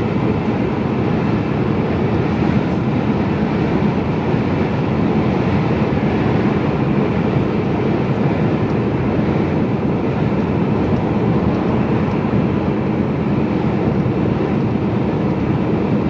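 Mercedes-Benz Actros lorry driving along, heard from inside the cab: a steady drone of engine, tyre and wind noise.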